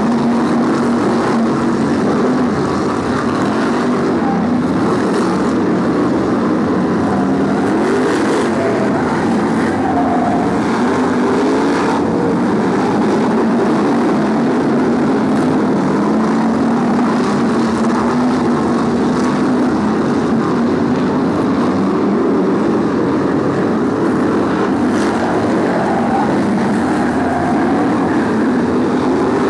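A pack of BriSCA F1 stock cars racing, their V8 engines running hard together, the pitch of several engines rising and falling as they lap the oval.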